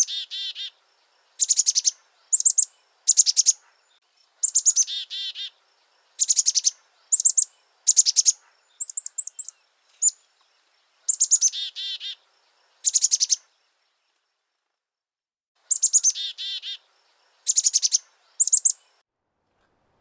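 Songbird singing: a dozen or so short phrases, each of quick high chirps, several ending in a lower run of buzzy notes, with brief silences between and a longer pause past the middle.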